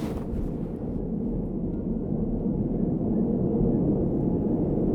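Seoul Subway Line 2 train running between stations, heard from inside the car: a steady low rumble of wheels on rails and running gear that gets gradually louder.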